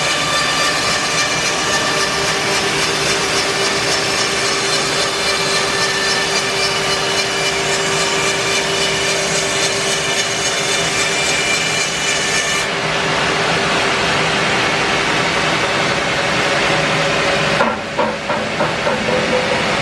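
Band sawmill sawing a larch log, a steady loud run with a high whine over machine noise. The highest part of the whine drops away about two-thirds of the way through, and a short clatter of knocks follows near the end.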